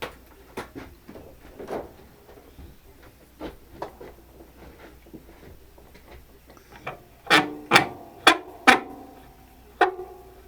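Light clicks and taps of metal tools and machine parts being handled, then four loud metal clanks in quick succession, each ringing on briefly, and one more clank near the end.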